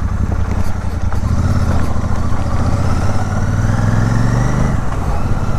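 Motorcycle engine running while riding, its pitch climbing steadily from about two seconds in, then dropping away near the end.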